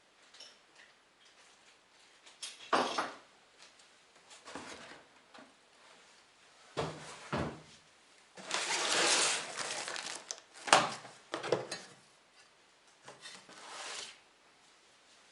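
Parts and packaging being handled: irregular knocks and clunks, the sharpest about three seconds in and again near eleven seconds, with a longer rustling scrape lasting about a second and a half around nine seconds.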